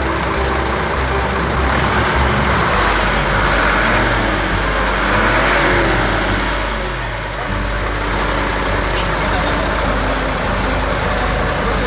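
Mitsubishi Fuso Canter 125 PS turbo diesel truck engine running with its valve clearances freshly set. It is revved up and back down a few seconds in, then settles to a steady run.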